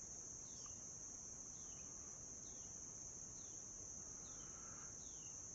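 Faint, steady high-pitched insect trill, typical of crickets, with a series of short falling notes repeating a little more than once a second.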